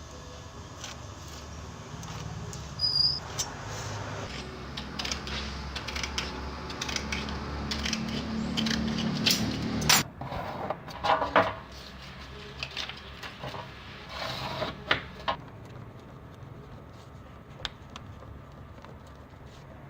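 Scattered clicks, knocks and clatters of small objects being handled on a work surface over a low steady background hum, busiest in the middle and thinning out near the end.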